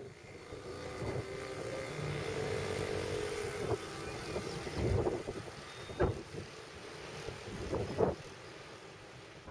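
Strong wind on the microphone, with gusts buffeting it in heavy thumps about five, six and eight seconds in. A steady droning hum sits under the wind for the first few seconds, then fades.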